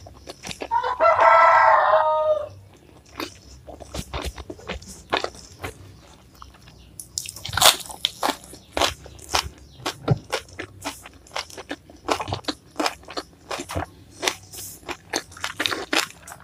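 Close-up crunching and chewing as crisp raw vegetables are bitten, in many sharp crunches. A rooster crows once, about a second in, for roughly two seconds, louder than the chewing.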